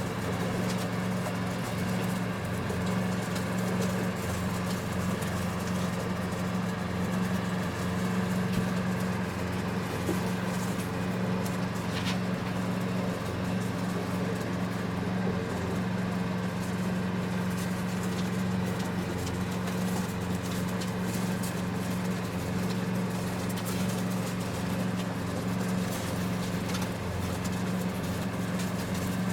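A steady low mechanical hum that does not change in pitch or level.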